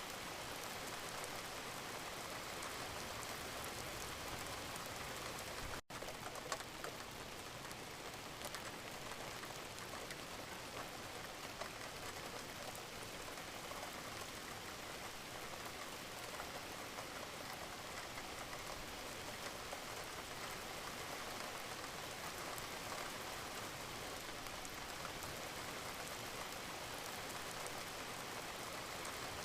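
Steady rain falling, an even hiss with scattered drop ticks, and a momentary dropout in the sound about six seconds in.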